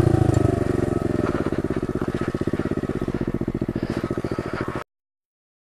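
Pit bike's single-cylinder engine running and slowing down, its firing pulses getting quieter and further apart. The sound cuts off suddenly to silence about five seconds in.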